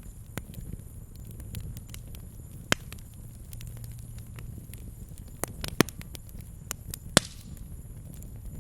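Wood campfire crackling, with sharp irregular pops, the loudest about three, six and seven seconds in, over a low steady rumble.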